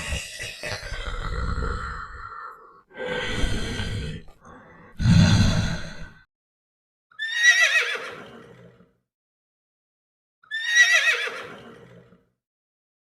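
Horse whinnying several times. The last two calls are alike: quavering cries that fall in pitch, each about a second and a half long.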